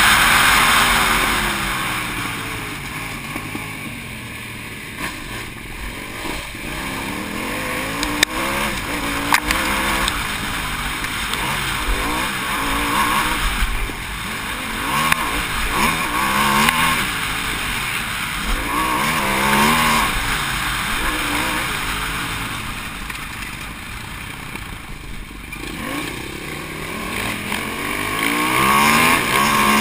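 Aprilia SXV supermoto engine heard from on board at race pace, its pitch rising and falling again and again as the rider accelerates, shifts and closes the throttle for corners. Wind rushes over the microphone throughout.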